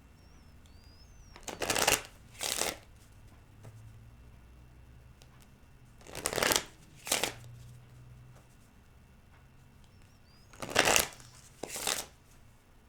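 A deck of tarot cards being shuffled by hand, in three short pairs of passes a few seconds apart. In each pair a longer pass is followed by a shorter one.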